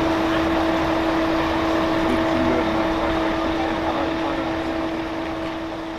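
Heavy vehicle engine running with a steady drone and a constant hum, easing slightly in level toward the end.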